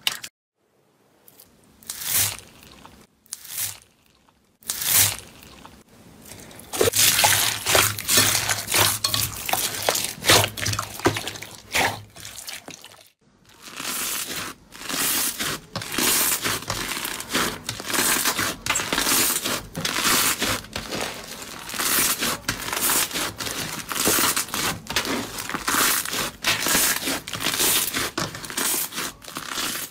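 Slime being squeezed, pressed and poked by hand, giving dense wet clicking, popping and crackling. It breaks off to near silence about a second in and again about thirteen seconds in.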